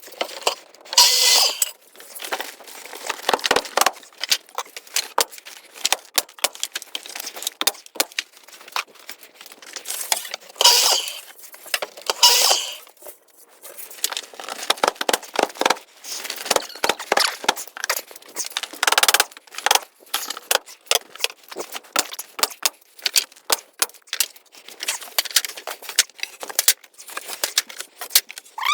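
Carpentry work: a dense run of irregular clicks, taps and knocks, with a few louder hissing bursts about a second long, as cedar boards are fitted and nailed up.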